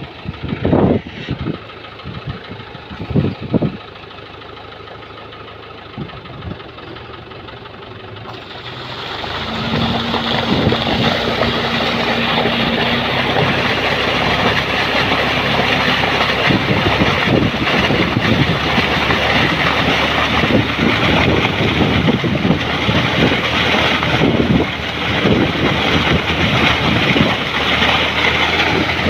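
Tractor engine running, with a few knocks in the first seconds; from about eight seconds in the sound swells to a loud, steady running level.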